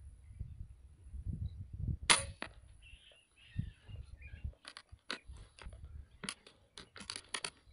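A single sharp rifle shot about two seconds in, followed near the end by a scatter of quick clicks and knocks.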